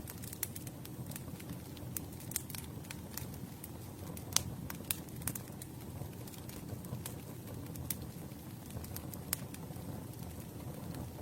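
Campfire burning: a steady low rumble of flames with irregular sharp crackles and pops, the loudest about four seconds in.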